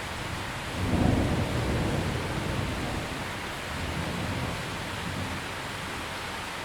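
Steady heavy rain with a roll of thunder: a low rumble breaks in about a second in, then rolls and fades over the next few seconds beneath the rain.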